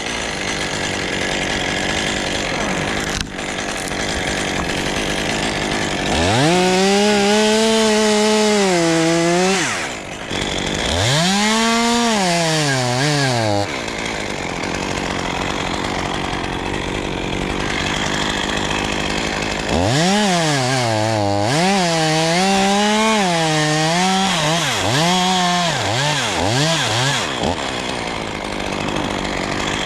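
Stihl chainsaw revving in three bursts, its pitch climbing and then sagging and wavering as it takes and eases off load in the cut. A steady rushing noise runs underneath throughout.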